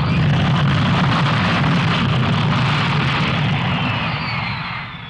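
Jet noise from a BAC One-Eleven airliner's Rolls-Royce Spey turbofans, loud and then fading over the last second as the aircraft passes, with a high whine falling in pitch.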